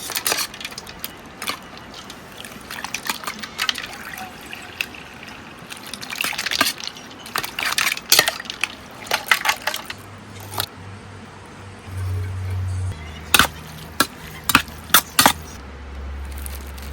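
Running stream water with a scatter of sharp clicks and knocks. From about ten seconds in, background music enters with a low bass line and a few sharp beats.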